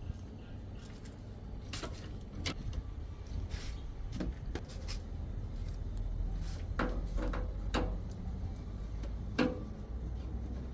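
Scattered clicks and knocks of hands and tools working on a washing machine's casing panels, over a low steady hum.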